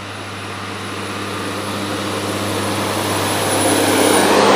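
A large vehicle's engine approaching along the road, growing steadily louder as it draws near and passes close by near the end, with a steady low engine hum and rising road noise.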